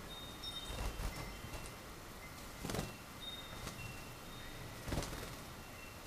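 Small pet cage birds giving faint, brief high peeps now and then, with a few soft knocks and rustles of wings and handling.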